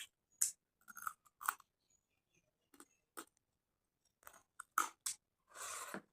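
Close-up chewing of a rice and fish-curry meal: a series of short wet smacks and crunches, with one longer, louder crunching stretch near the end.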